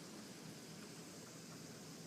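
Faint, steady hiss of a storm's falling precipitation, with no distinct hailstone strikes and a slight low hum beneath.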